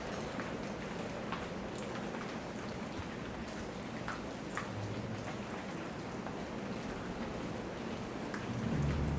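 Steady tropical rain, with individual drops ticking on a surface here and there. A brief low rumble swells a little before the end.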